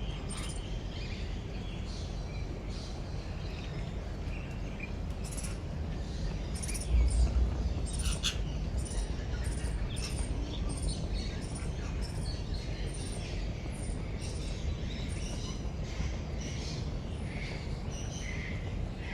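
Many birds chirping and calling at once, short high notes overlapping throughout, over a steady low rumble. About seven seconds in there is a brief louder low rumble.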